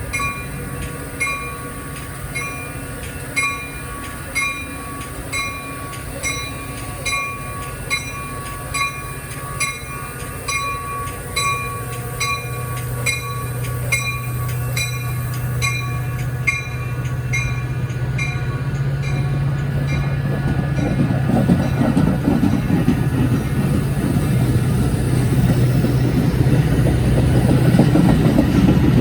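Railroad bell dinging about once a second, stopping about two-thirds of the way through, while an approaching train's rumble grows steadily louder.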